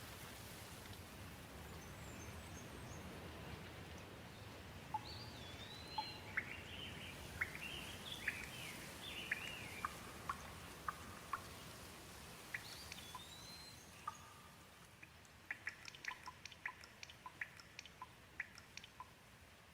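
Gentle rain falling as a soft, steady hiss, with a bird calling in short arching whistles and chirps through the middle. Near the end the rain thins and a quick, uneven run of sharp ticks comes in.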